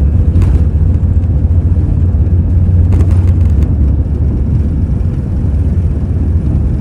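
Airbus A320-214's CFM56 engines at takeoff power, heard from inside the passenger cabin as a loud, steady, deep rumble with a faint hum above it. A few light clicks or rattles come through about half a second and three seconds in.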